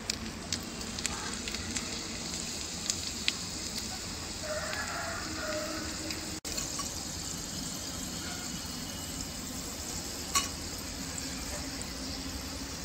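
Split moong dal sizzling steadily as it deep-fries in hot oil in a miniature kadai, with a few faint clicks.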